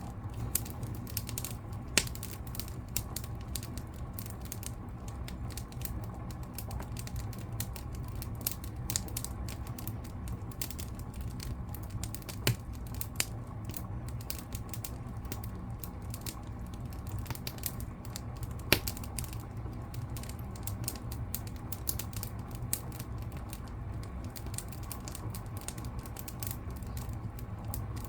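Wood fire crackling in a fireplace: a dense stream of small irregular crackles over a steady low rumble, with a few louder sharp pops, about two seconds in, near the middle and about two-thirds of the way through.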